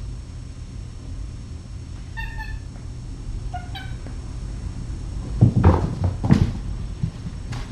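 A cat gives two short meows, the second rising slightly in pitch. A few seconds later come several loud thumps in quick succession and one more knock near the end.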